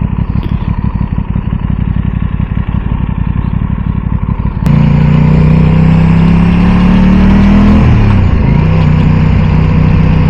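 Aprilia Tuono 660 parallel-twin motorcycle engine under way: an uneven low running sound with wind buffeting the microphone, then about halfway through the throttle opens and the engine note rises steadily. It drops with an upshift about eight seconds in and runs on at the new gear.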